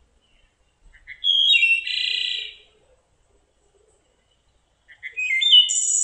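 Recorded wood thrush song: two flute-like phrases about three seconds apart, each sounding several notes at once, the second ending in a high buzzy trill.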